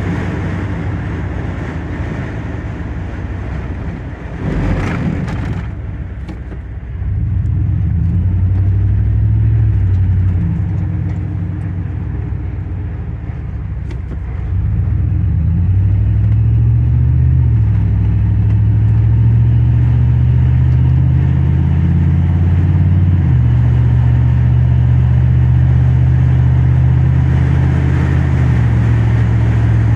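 Car driving at highway speed: a steady low engine drone with road noise, its pitch stepping to a new level a few times as the speed changes. There is a brief burst of noise about five seconds in.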